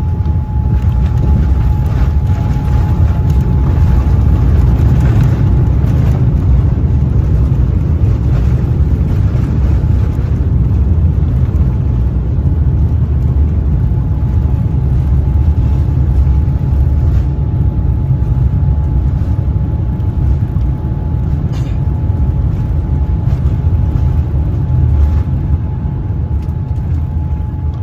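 Airliner cabin noise: a steady, loud low rumble from the engines and airflow, with a thin constant whine above it.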